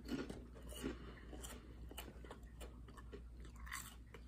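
Faint, irregular crunching of a Torres black truffle potato chip being chewed, mixed with the crinkle of the foil chip bag being handled.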